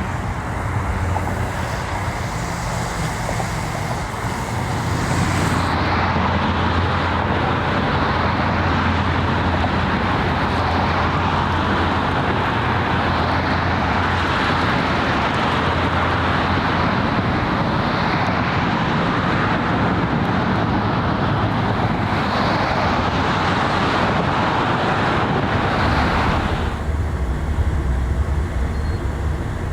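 Steady low engine hum under a broad rushing noise, typical of harbour ambience with engines and water or traffic. The sound changes abruptly about five seconds in and again near the end.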